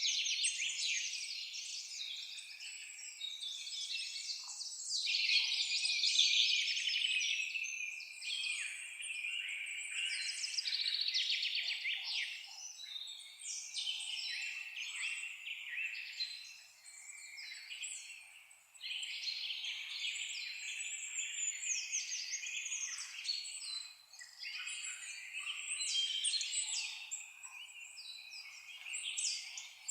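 A chorus of songbirds chirping and singing over one another, with rapid trills and high chirps, rising and falling in loudness and briefly thinning out twice.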